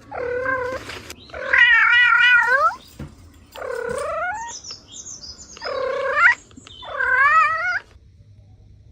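A cat meowing five times in drawn-out calls, the second and the last long and wavering.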